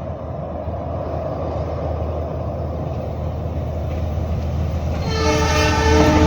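An approaching train rumbling and growing steadily louder, with a low engine drone underneath. About five seconds in its horn sounds, a chord of several tones held for over a second.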